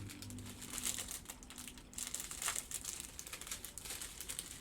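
Small plastic baggies of diamond painting drills crinkling as they are handled, a run of quick, irregular rustles and crackles.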